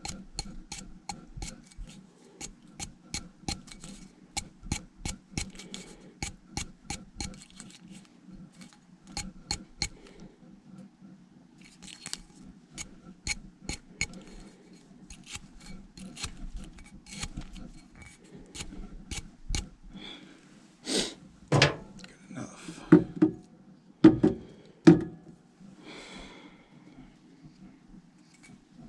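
Hand-tool work on a furnace gas valve: a long run of evenly spaced sharp clicks, about two or three a second, then several louder knocks and clunks near the end, over a faint steady low hum.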